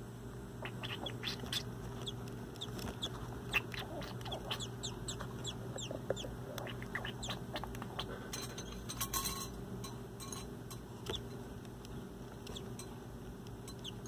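Fledgling songbird chirping: a run of short, quick, downward-sliding peeps, thick for the first several seconds and sparser later, over a steady low hum.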